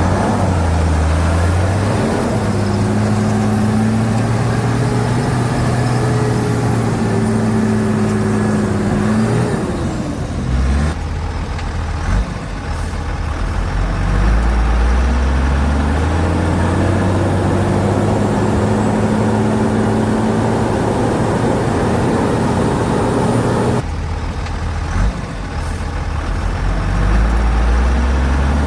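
Heavy diesel engine of earthmoving machinery working under load, its pitch climbing as it revs up, holding, then dropping back, several times over. There are abrupt breaks in the sound twice, about a third of the way in and again later.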